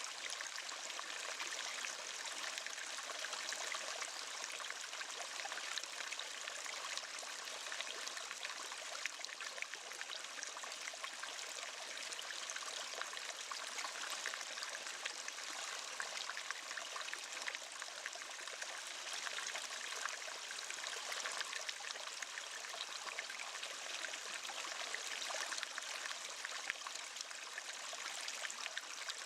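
Waterfall: water rushing and splashing steadily, a bright hiss with little low rumble.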